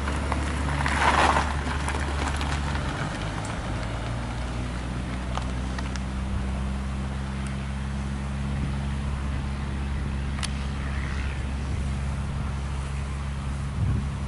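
Piper PA-28 Cherokee light aircraft's piston engine and propeller running steadily at low power, the engine note shifting slightly about three seconds in. A brief rushing noise about a second in is the loudest moment.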